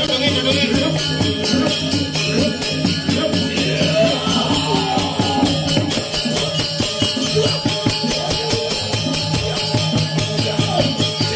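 Balinese gamelan playing ceremonial music: a fast, even clash of small cymbals over ringing metallophone and gong tones.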